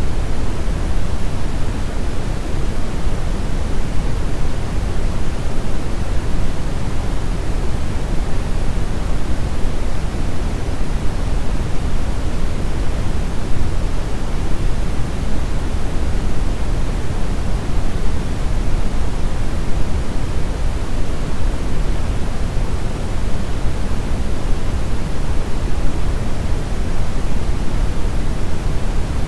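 Steady brown noise: a continuous, even hiss-rumble weighted toward the low end, with no changes or events.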